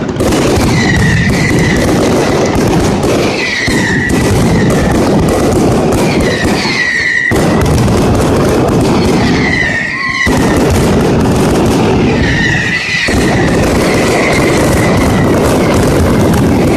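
Mascletà firecracker barrage: a dense, unbroken rattle of bangs, with short whistles rising to a high pitch every two to three seconds.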